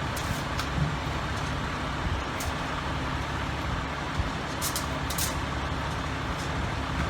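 Steady low rumble of a running vehicle engine, with a few short sharp ticks, the loudest pair about five seconds in.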